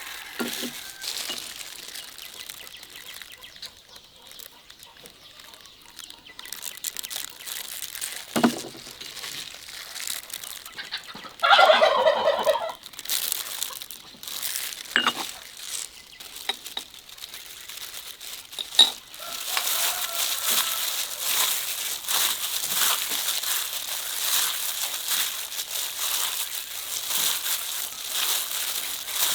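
A loud bird call, rapidly pulsing and lasting about a second and a half, about twelve seconds in. Scattered crackles and rustling come before and after it.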